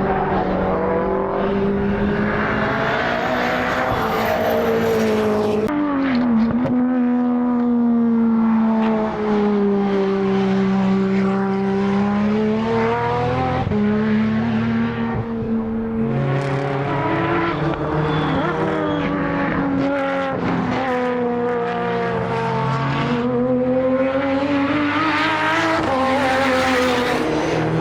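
Modified time attack race car engines on track, revving hard. The engine pitch climbs, drops sharply at gear changes or lifts, and climbs again several times.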